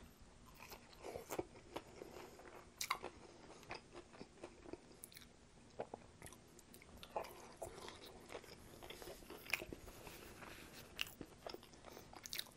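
Close-up chewing of homemade breaded fried chicken tenders: crisp crunches from the fried coating and wet mouth sounds, with many short sharp crackles scattered throughout.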